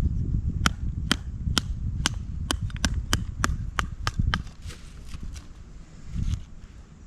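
A run of about a dozen sharp strikes, evenly spaced at roughly two a second, then a few fainter ones trailing off.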